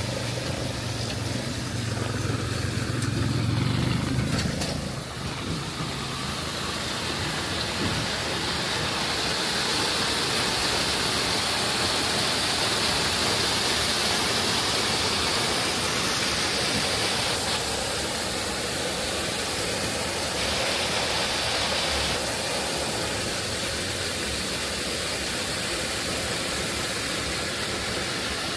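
Heavy rain falling steadily, a constant even hiss. A low steady hum sits under it for the first five seconds and then stops.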